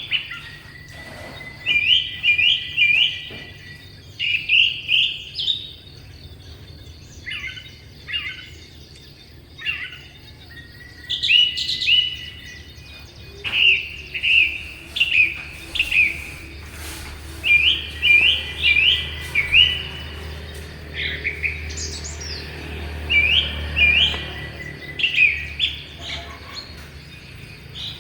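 Small birds chirping: short, sharp upward-sweeping chirps, often in quick runs of two to four, repeated every second or two over a low, steady background rumble.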